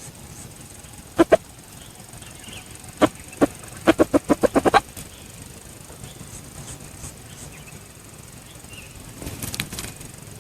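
A junglefowl rooster flapping its wings. There are a few single wing-beats, then a quick run of about eight beats near the middle, and a short rustle near the end.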